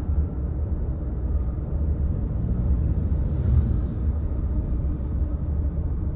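Car driving, a steady low rumble of road and engine noise, with a brief swell of hiss about three and a half seconds in.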